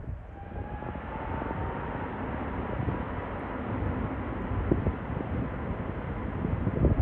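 Jet airliner's engines growing louder, a thin whine rising slowly in pitch over a steady roar. Wind buffets the microphone underneath.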